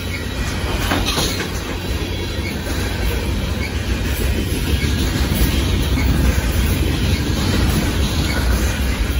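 Union Pacific freight train of boxcars rolling past close by, its steel wheels running steadily over the rails.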